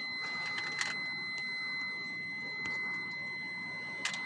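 A steady high-pitched electronic tone, held without a break, with a few faint clicks.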